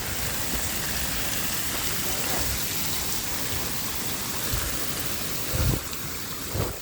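Steady hiss of falling water, with two short low thumps near the end.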